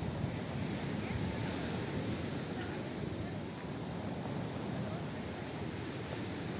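Outdoor crowd ambience: indistinct chatter of many passers-by over a steady noisy rumble.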